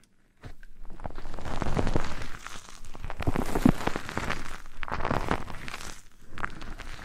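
Close-miked ASMR scratching and rustling against the microphone, a dense crackle of fine clicks. It starts about half a second in and swells and fades in waves.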